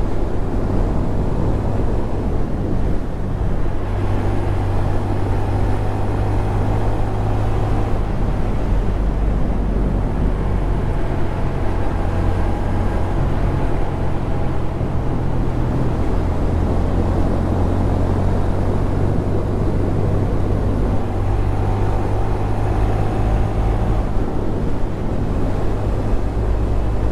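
Honda Grom 125's single-cylinder engine running under way, a steady drone with small shifts in pitch around a third and again about halfway through, over a rushing noise of the ride.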